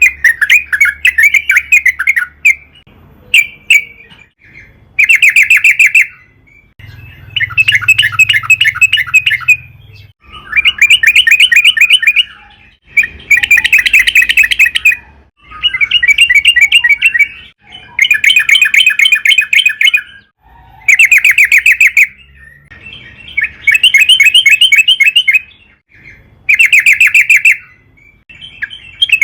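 Yellow-vented bulbul singing in repeated loud bouts of rapid, bubbling, rolling notes, each a second or two long, with short pauses between them.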